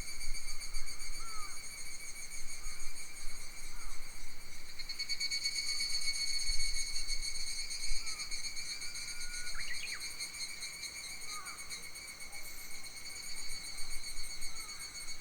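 Summer forest ambience: a steady, high, pulsing insect trill runs throughout. Scattered short bird chirps sound over it, with one rising whistled call about ten seconds in. Faint wind rumbles on the microphone now and then.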